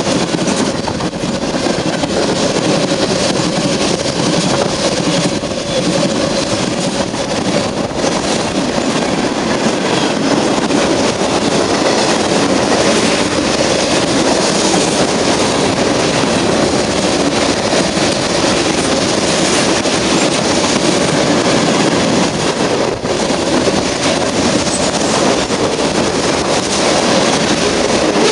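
Train passing close by, its wheels rolling loud and steady on the rails, with a faint steady tone over the rumble in the first half.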